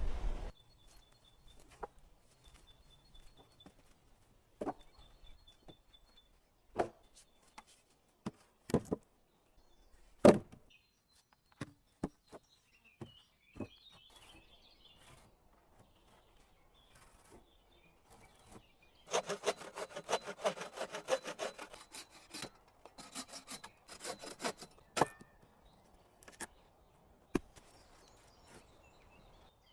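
Wood being handled, with scattered sharp knocks and snaps, then a few seconds of quick back-and-forth saw strokes through wood about two-thirds of the way in, and a shorter burst of strokes just after.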